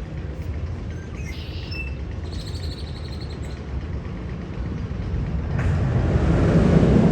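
Roller coaster train running with a steady low rumble. A few short high chirps come in the first few seconds, then a rushing noise swells near the end.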